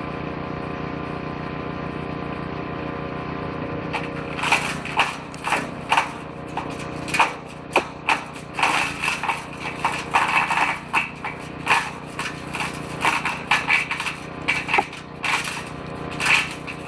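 Petrol-engined woodchipper running steadily; from about four seconds in, branches are fed into the shredder drum and chewed up with a rapid, irregular series of sharp cracks and snaps.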